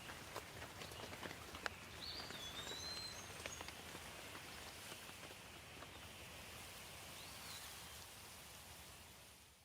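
Light rain falling steadily, with scattered individual drops ticking close by and a few faint bird chirps about two to three seconds in and again near the end. The sound fades out at the very end.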